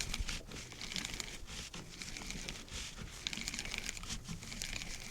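Irregular crackling and rustling close to the microphone: handling or rubbing noise on the mic.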